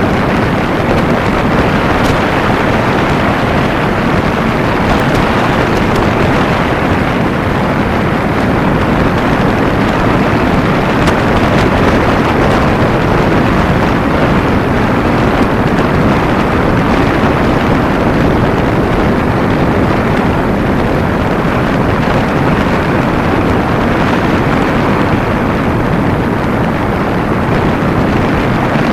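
Steady wind rushing over the microphone of a riding motorcycle, with the Kawasaki Ninja 250's engine running underneath, unchanging throughout.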